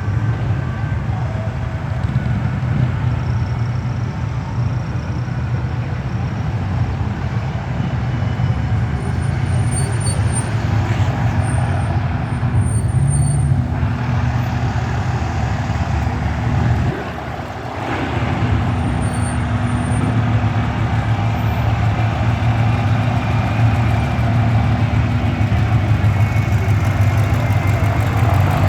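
Motor vehicle engine running steadily with a low hum, dipping briefly about two-thirds of the way through.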